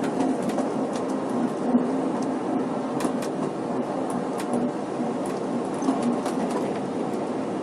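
Snowdon Mountain Railway carriage climbing the rack-and-pinion line, heard from inside: a steady running rumble with a few sharp clicks and knocks, about three and four and a half seconds in.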